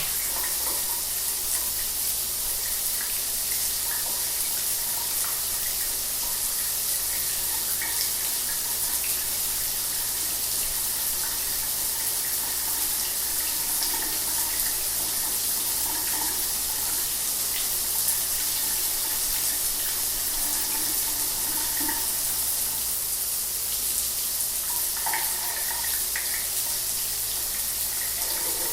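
Shower water running steadily, a dense hiss of spray with faint splashing tones.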